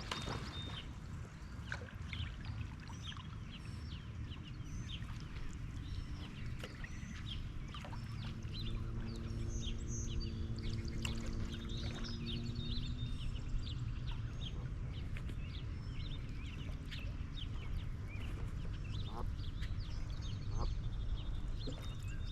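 Light rain falling on a kayak and the lake: a steady scatter of small drop ticks over a low rumble. A steady low hum comes in for a few seconds near the middle.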